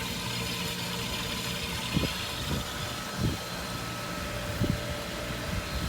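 Pool pump motor running with a steady hum as water circulates through the plumbing, with a few short soft knocks along the way.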